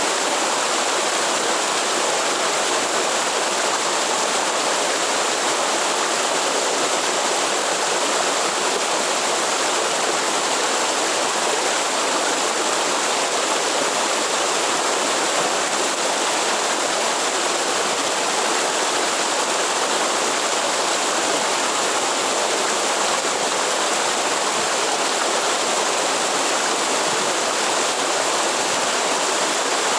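Waterfall water rushing, a steady unbroken hiss that does not change.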